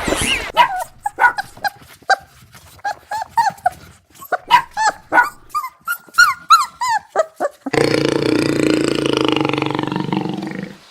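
A dog yipping and whining in many short, high, rising-and-falling yelps, several a second. About three-quarters of the way through it cuts abruptly to a different, steady, lower sound.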